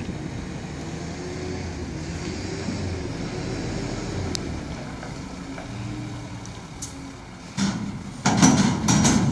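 Heavy vehicle engine running steadily, with a low rumble. Near the end, a few loud rushing bursts come over it.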